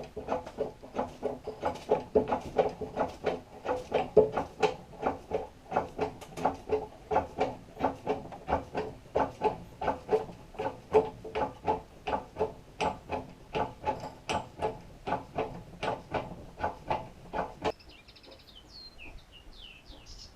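A hand-worked mechanical tool clicking in a steady rhythm of about two and a half strokes a second, each stroke with a squeaky ring. It stops abruptly about 18 seconds in, followed by a few faint high chirps.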